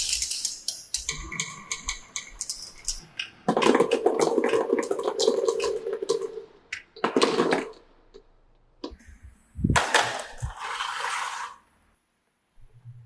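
Marbles clattering and rolling on a plastic marble run, in several runs of rapid clicks and rattles. The longest and loudest run comes a few seconds in, with a steady ringing under the clatter.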